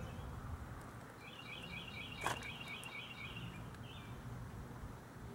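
A songbird trilling a quick run of about a dozen repeated chirps for about two seconds, over steady outdoor background noise. A single sharp knock sounds in the middle of the trill.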